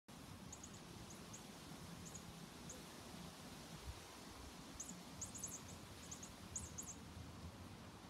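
Faint, high, thin bird chirps in quick clusters of two to four, a few scattered at first and coming thicker from about five seconds in.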